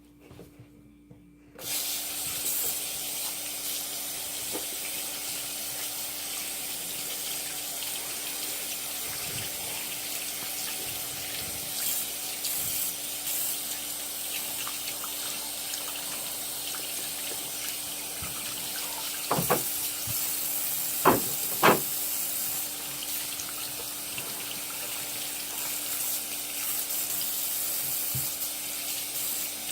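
A steady rushing hiss starts suddenly about a second and a half in and runs on evenly over a faint steady hum. Three sharp knocks come close together about twenty seconds in.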